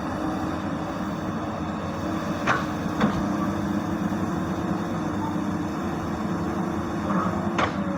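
Komatsu PC200 hydraulic excavator's diesel engine running steadily under work, with three sharp knocks: two about two and a half and three seconds in, and one near the end.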